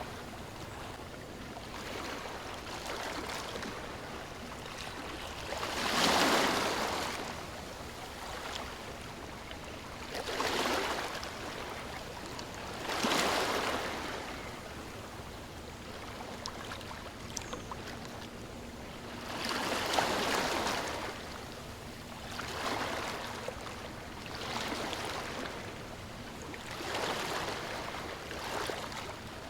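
Ocean surf washing onto a shore, with a wave swelling in and fading away every few seconds over a steady hiss of water.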